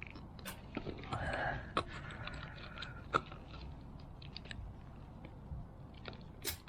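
Small clicks and rattles of plastic fuel pump assembly parts being handled and pressed together by hand, with a few sharper clicks and a brief scraping sound about a second in.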